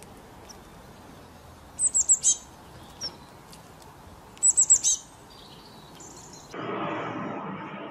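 A small bird chirping: two quick runs of about four short, high, falling chirps, with a single chirp between them. Muffled music comes in about six and a half seconds in.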